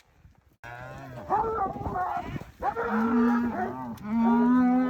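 Several cattle bawling in overlapping long moos, starting abruptly about half a second in, with one long, loud moo near the end.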